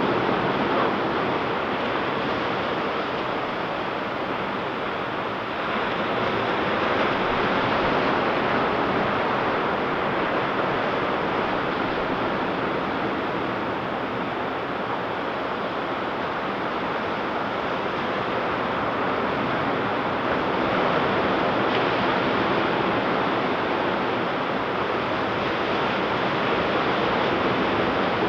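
Ocean surf washing continuously onto a beach, in slow swells that rise and ease every several seconds.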